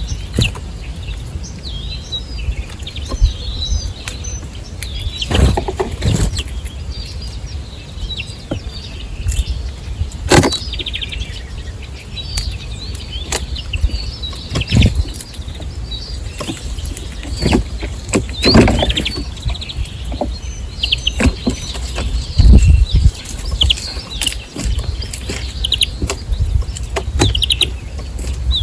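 Small birds chirping and twittering almost continuously, with several brief wing flutters at irregular intervals over a steady low rumble.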